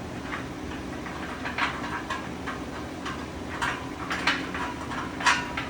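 Light metal clinks and knocks, about seven spaced irregularly, some ringing briefly, from steel parts of a Vevor 2-ton engine hoist being handled as its legs are set up, over a steady low hum.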